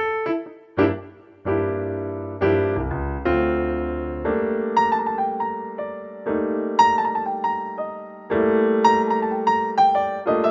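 Background music: a soft piano piece playing chords under a gentle melody, with a low bass note that stops about four seconds in.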